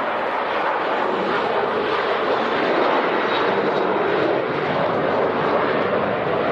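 Jet airliner engines, a steady noise that grows slightly louder toward the middle and stays strong throughout.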